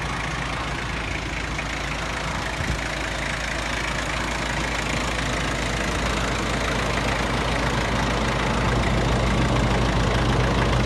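VM Motori 2.5-litre four-cylinder turbo diesel of a 1995 Jeep Cherokee XJ idling steadily, growing gradually louder over the last few seconds.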